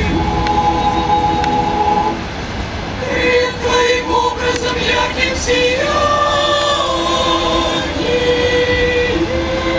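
Slow singing in long held notes, the melody stepping to a new pitch every second or two.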